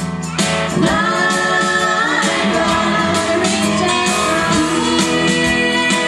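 Gospel vocal group singing in harmony, with male and female voices, over strummed guitar accompaniment.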